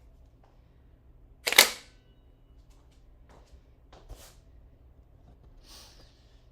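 A single sharp mechanical clack about one and a half seconds in, briefly ringing, followed by a few faint clicks and light knocks.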